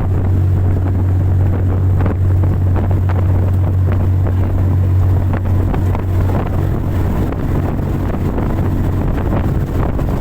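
A fast boat under way at speed: its engine drones steadily and low, with wind buffeting the microphone and rushing water.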